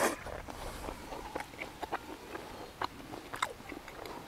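A person chewing a mouthful of grilled steak close to the microphone, with small irregular wet mouth clicks. A sharper click comes right at the start.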